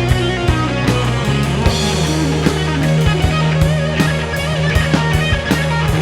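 Rock band playing an instrumental passage between vocal lines: electric guitar over bass and a drum kit keeping a steady beat.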